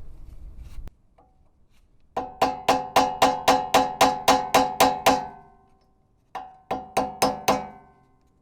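Hammer tapping on a flathead screwdriver wedged against a car's rear wheel-hub dust cap to work the cap off, each blow ringing metallically. A quick run of about a dozen taps, about four a second, then a pause and five more taps.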